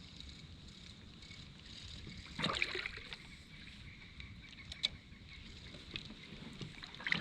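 Kayak being paddled: a paddle stroke splashes about two and a half seconds in, with a few light clicks later, over a low steady rumble.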